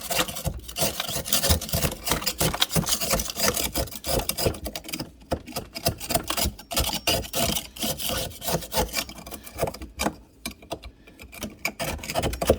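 A sharp utensil scraping and chipping at ice built up in a refrigerator's ice maker: a rapid, irregular run of rasping scrapes that eases off briefly about ten seconds in. The build-up is clogging the ice maker.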